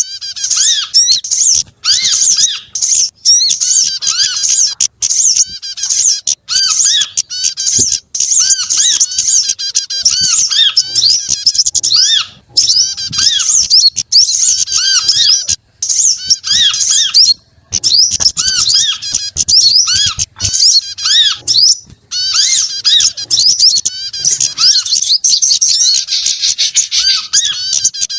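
Bird-lure recording that mixes the calls of several small songbirds: dense, rapid, high-pitched twittering and chirping, with a short arched note repeated underneath about once or twice a second and a few brief breaks.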